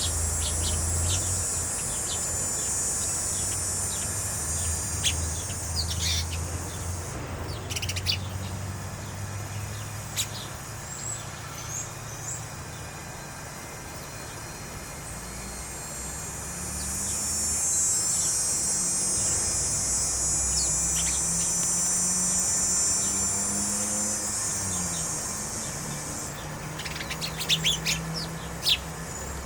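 Small songbirds chirping in short, scattered calls, in clusters a few seconds apart and most densely near the end. Behind them is a steady high hiss that swells and fades, and a low hum.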